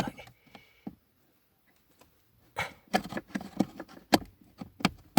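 Handling noise from fitting the car's air-flap positioning motor: after a near-silent stretch, an irregular run of sharp clicks and knocks from parts and tools being worked into place starts about two and a half seconds in.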